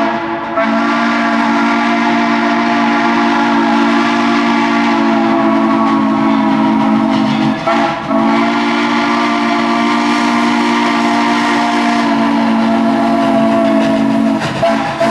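Steam whistle of Central Railroad of New Jersey 0-6-0 No. 113 sounding long, steady blasts as a chord of several tones, broken briefly just after the start and again about halfway through, and stopping shortly before the end.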